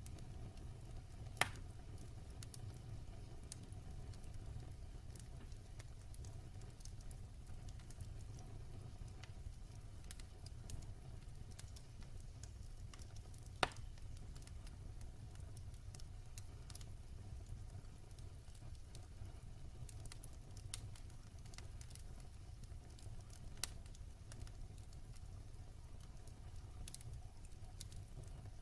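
Wood fire crackling: scattered sharp snaps and pops over a low steady rumble, with two louder pops, one about a second in and one about halfway through.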